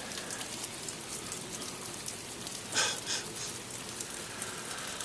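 Sleet pellets ticking and pattering steadily on surfaces, with a brief louder hiss about three seconds in.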